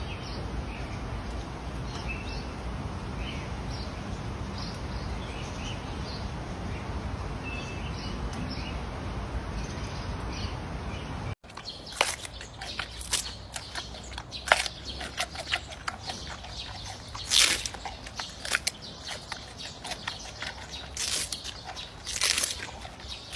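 Faint short chirps over a steady background hiss. After an abrupt cut about halfway, a run of sharp, irregular high squeaks and clicks.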